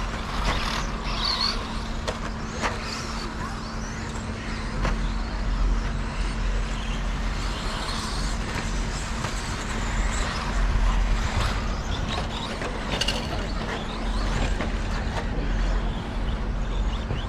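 Electric 2wd RC stadium trucks racing round a track: a steady mix of motor whine and tyre noise, broken by sharp clicks and knocks every second or two.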